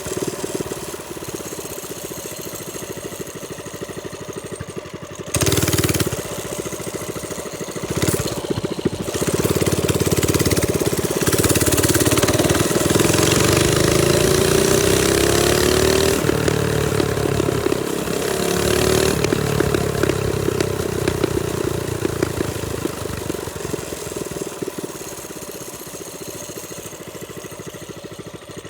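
Trailmaster Storm 200 minibike's small single-cylinder engine running while ridden: two short throttle blips, then a longer stretch at higher revs with the pitch rising and falling, easing back toward idle near the end.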